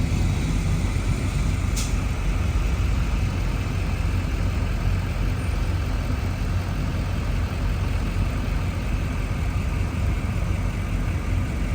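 Steady low drone of a pickup truck's engine and road noise heard from inside the cab, with a brief click about two seconds in.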